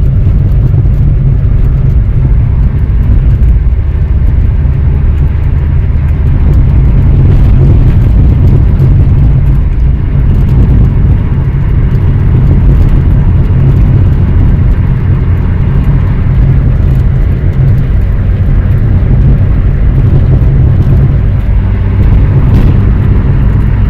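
1990 VW Polo Fox's 1043 cc, 45 hp petrol four-cylinder engine heard from inside the cabin while driving, a steady low drone with road noise.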